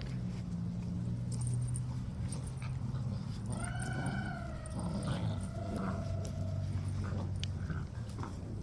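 Dalmatian puppies playing, with small growls and a long whine in the middle that slides down and then holds. A steady low hum underneath.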